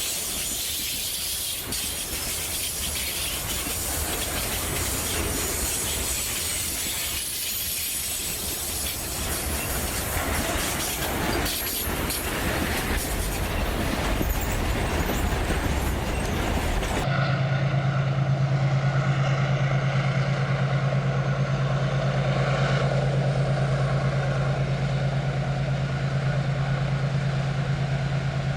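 A freight train running along the line, with a broad rumble and wheel noise. About two-thirds of the way through, the sound changes abruptly to a steady low engine hum, likely a diesel locomotive.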